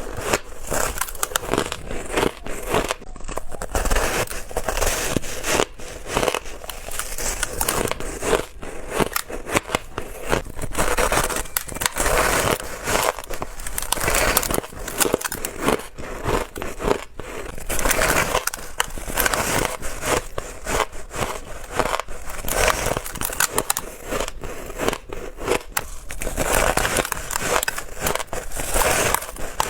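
Close-miked biting and chewing of ice, a continuous run of crisp crunches and crackles as the ice is bitten and crushed between the teeth.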